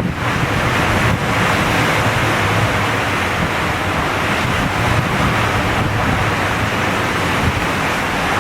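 Strong typhoon wind blowing hard and hitting the microphone: a loud, steady rushing noise.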